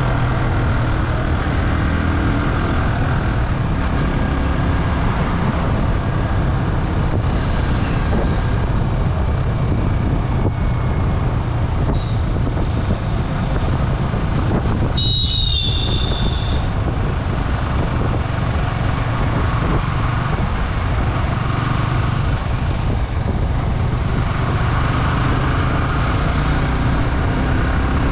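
Yamaha R15 single-cylinder engine running steadily at cruising speed, under a constant rush of riding wind. About halfway through there is a brief high ringing tone.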